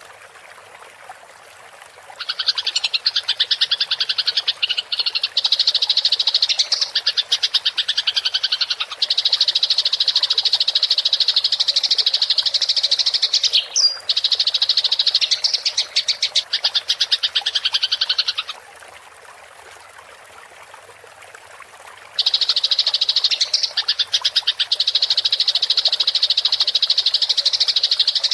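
Eurasian tree sparrow's fighting call: long runs of fast, high rolling chatter, stopping for a few seconds about two thirds of the way through and then starting again. In the pauses a faint steady trickle of water is heard.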